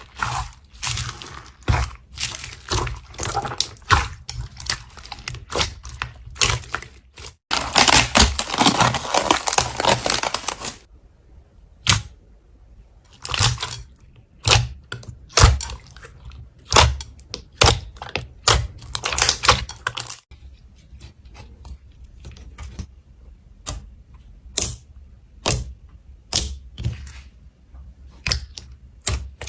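Slime being worked by hand, giving a run of sharp clicks and crackles. About a third of the way in there is a dense burst of crackling lasting about three seconds, and after it the clicks come singly and further apart.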